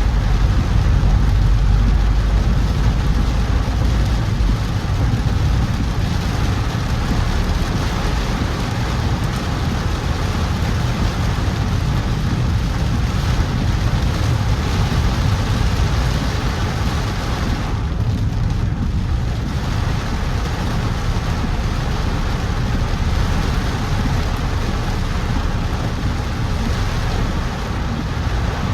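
A car driving in heavy rain: a steady rush of rain and tyres on a wet road over a low rumble of the car. About eighteen seconds in, the rain hiss drops away for a second or two, then returns.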